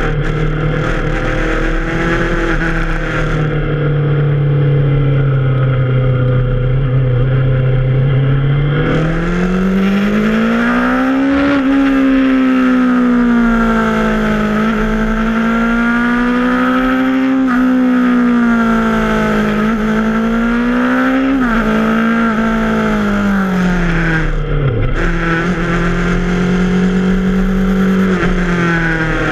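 Yamaha FZ6R's inline-four engine pulling under load: its pitch holds steady, climbs about a third of the way in, rises and falls several times, then drops sharply near the end before picking up again.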